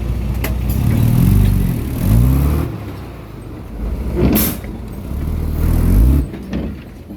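Komatsu D20P bulldozer's diesel engine revving up and dropping back several times as it works, with a few short sharp knocks along the way.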